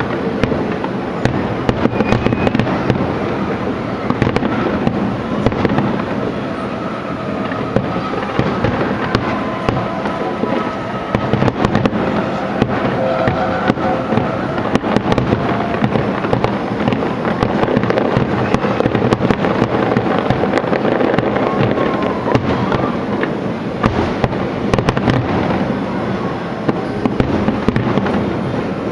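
Fireworks display: a continuous barrage of bangs and crackles, with music playing underneath, heard most clearly in the middle stretch.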